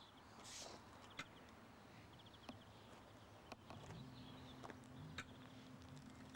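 Quiet outdoor ambience with faint birds chirping and a few sharp clicks; a low, steady hum comes in about four seconds in.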